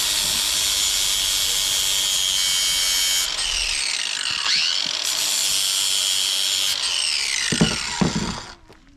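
Cordless angle grinder running on steel brackets, grinding them clean for welding. Its high whine dips in pitch under load around the middle, then falls away as it spins down near the end, with a couple of knocks.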